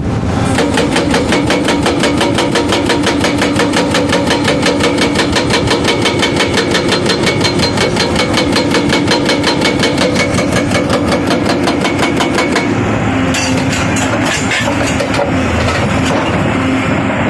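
Furukawa hydraulic breaker on an excavator hammering with a fast, even run of sharp blows, over the diesel engine. A little before the end the rapid hammering stops, leaving the engine running with a few scattered knocks.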